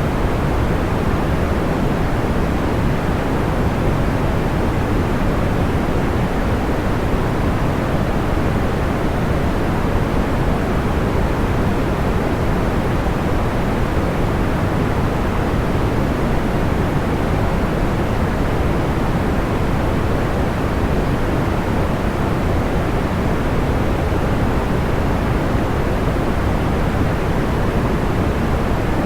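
Steady, even noise-machine hiss, deep rather than bright, like pink noise, with no audible crackles or pops.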